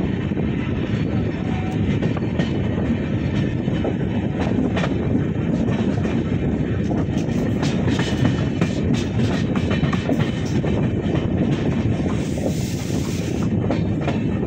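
Express passenger train running along the track: a steady low rumble with wheels clicking over rail joints, and a brief hiss near the end.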